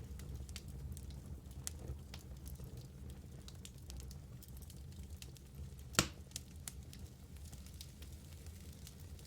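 Wood fire burning in a fireplace: a low steady rumble of flames with scattered crackles and small pops from the burning logs, and one louder pop about six seconds in.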